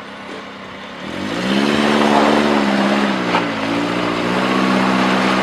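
Subaru Forester's flat-four engine revving up about a second in and pulling under load as the car climbs a rocky trail; the revs dip briefly, then hold steady. A single sharp knock a little after three seconds.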